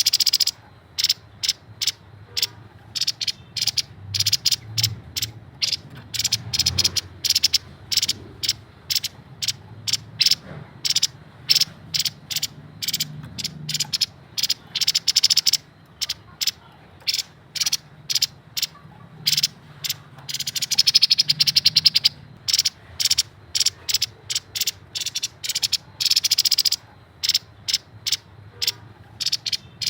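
Grey-headed babbler singing a fast, stuttering run of short high notes, several a second, broken by a few longer dense rattling trills in the middle and near the end.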